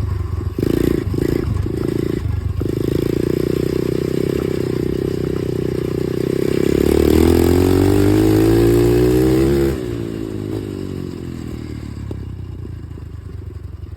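Dirt bike engine running under the rider, pulsing unevenly at first, then rising in pitch as the bike accelerates for about three seconds. The throttle is then shut and it drops suddenly to a quieter, slowly falling note.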